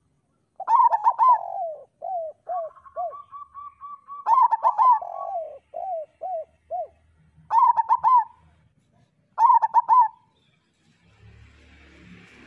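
Zebra dove (local perkutut) cooing: four loud phrases of quick clipped notes, the first two each trailing off into a run of short falling coos. A faint hiss rises near the end.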